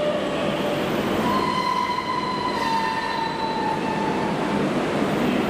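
Toei subway train moving along the platform: a steady rumble of wheels and running gear with a high whine that sets in about a second in and sags slightly in pitch before fading near the end.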